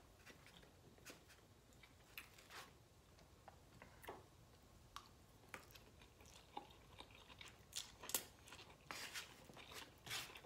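Faint close-miked eating sounds: chewing and wet mouth smacks on a mouthful of lo mein noodles, in scattered short clicks, busier near the end.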